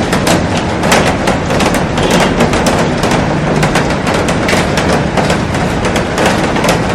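Heavy rain falling on a glass roof and garden: a loud, steady hiss packed with the sharp crackle of countless drops striking the glass.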